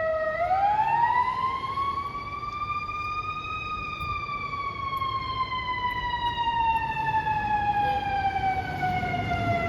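Fire truck siren wailing: one slow rise in pitch over the first three and a half seconds, then a long, slow fall, over a low rumble.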